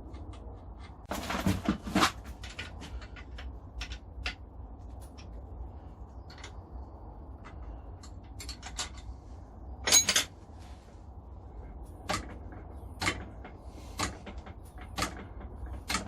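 Clicks and knocks of metal grinder parts and hand tools being handled during assembly, with a cluster of knocks about a second in, a sharper knock about midway, then about one click a second near the end, over a steady low hum.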